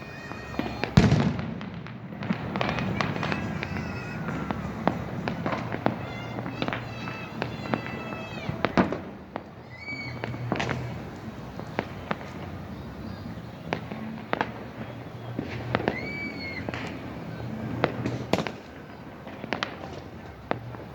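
New Year fireworks going off: many sharp bangs and cracks at irregular intervals, the loudest about a second in, with high whistling tones rising and falling at times.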